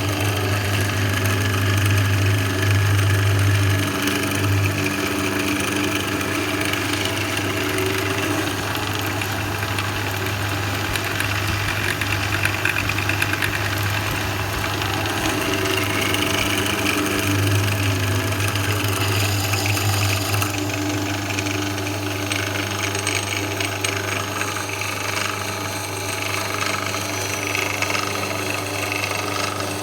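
Einhell TE-BD 750 E drill press's 750 W electric motor running steadily, with a strong low hum.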